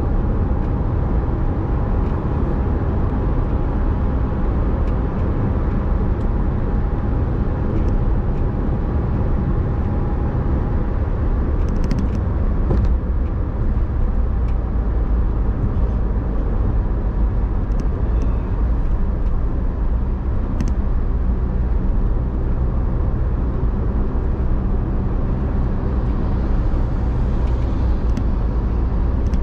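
Car driving: a steady low rumble of engine and road noise. A faint steady tone fades out about a third of the way in, and a few light clicks come through later.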